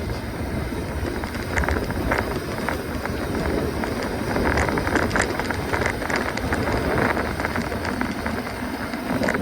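Mountain bike being ridden: a steady low rumble of wind on the microphone, with dense crackling and clicking from the tyres and bike over the trail.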